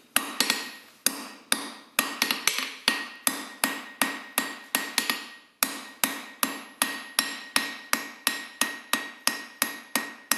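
Blacksmith's hammer striking a hot steel bar on an anvil, the rounded face of the hammer forging arches into the bar. Steady rhythm of about three blows a second with a brief pause about halfway through, and a high ringing tone carrying through the blows.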